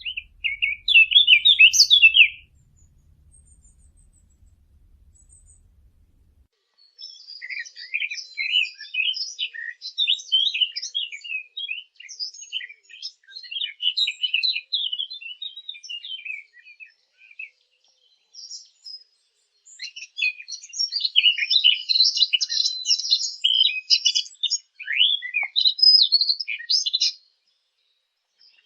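Birds chirping in bursts of rapid, high-pitched notes: a short burst at the start, a long run of twittering from about seven seconds in, a brief lull, then more chirping until near the end.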